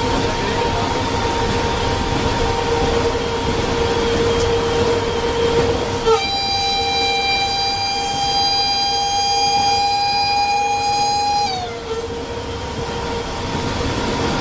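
WAP7 electric locomotive heard from its cab: steady running noise with a steady whine. About six seconds in, the locomotive's horn sounds one long blast of about five seconds, its pitch dropping as it cuts off.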